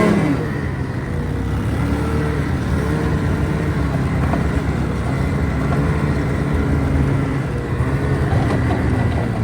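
Vehicle engine running during a ride, its pitch rising and falling with the throttle over a steady rumble of road and wind noise.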